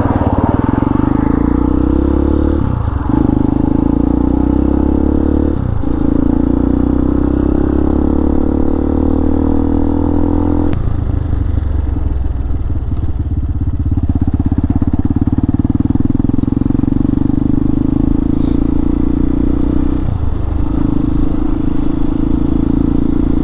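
Hawk 250 dual-sport motorcycle's single-cylinder engine running steadily under way, with brief dips in the engine note about 3, 6, 11 and 20 seconds in.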